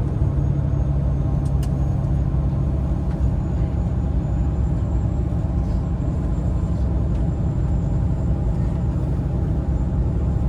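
Coach bus engine running with a steady low rumble, heard from inside the cabin.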